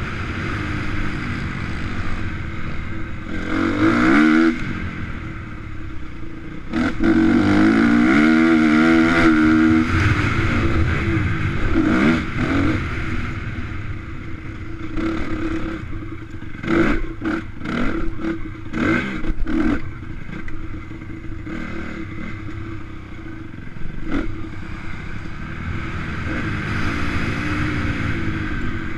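Motocross bikes running on a dirt track, engines revving up and dropping back as they go round, loudest when a bike passes close about a quarter to a third of the way in. A cluster of short sharp crackles comes about two-thirds through.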